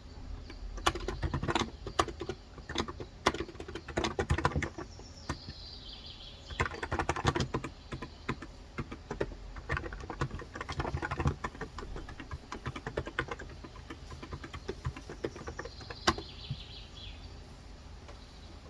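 Typing on a Cox Endeavour electrostatic capacitive keyboard with 35 g switches, in bursts of keystrokes with short pauses. A bird gives a short falling call about six seconds in and again near sixteen seconds.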